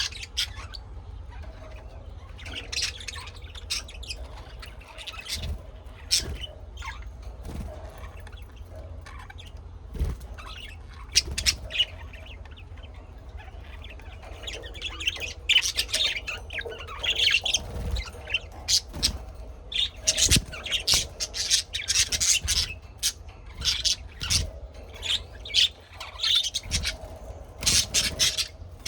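Birds calling: a rapid string of short, high-pitched calls that come thicker in the second half.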